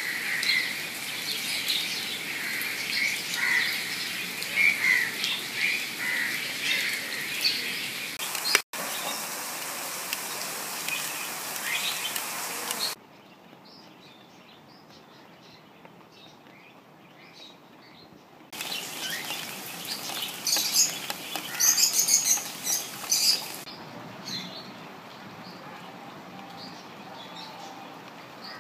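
Steady rain falling on leaves and ground, with small birds chirping over it. The sound changes abruptly a few times, dropping quieter for a stretch in the middle, then a burst of loud, high chirping before it settles again.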